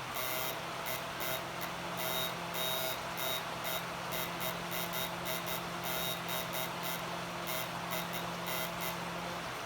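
Repeated short electronic beeps over a steady low electrical hum; the hum stops near the end.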